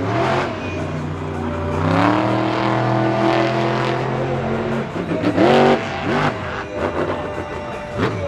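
Monster truck engine revving hard: a long rev climbs and holds for a couple of seconds, falls away, then comes a quick sharp blip and more short throttle surges.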